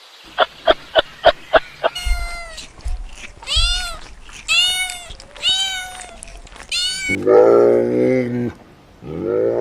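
Animal calls: a quick run of about six sharp clicks, then six short high calls that each rise and fall, then a long, deep drawn-out call near the end.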